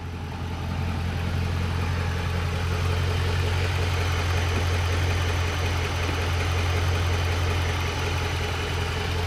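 Warm pickup truck engine idling steadily under the open hood, with no tick. The exhaust-leak tick it had when cold has stopped now that the manifold is hot and has sealed against its gasket.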